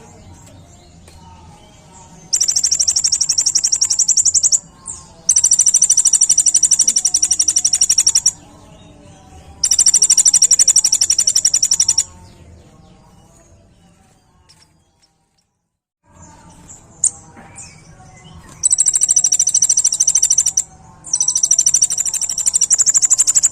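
Kolibri ninja (a sunbird) singing: loud, rapid, high-pitched trills in bursts of two to three seconds, five in all, with short pauses between. The sound cuts out completely for about a second after the third burst, then the trills resume.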